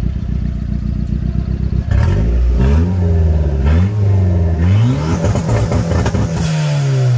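Turbocharged Honda Prelude four-cylinder engine idling, then revved in short blips about once a second, with a longer rev near the end that falls back.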